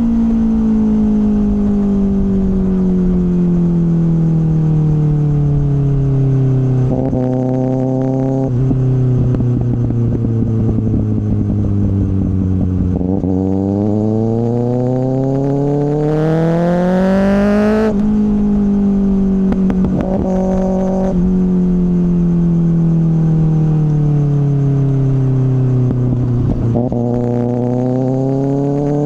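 2024 Kawasaki ZX-6R's inline-four through an M4 slip-on exhaust, riding with a steady loud engine note. The pitch sinks slowly as the bike slows for about the first half, then climbs under throttle and drops sharply just past halfway. It falls again and rises once more near the end.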